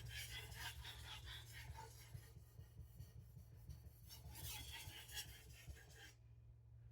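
Faint scraping strokes of a chef knife's steel edge rubbed back and forth on a fine whetstone under light pressure, pausing near the end.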